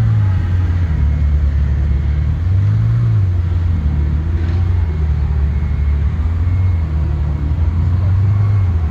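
Car engines running at low revs, a steady deep rumble that swells slightly in pitch a few times, as with light throttle blips.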